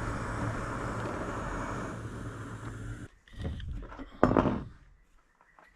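Stove burner hissing steadily under a pot of steaming water, shut off abruptly about three seconds in, then a few knocks and one loud clank of the metal pot being handled.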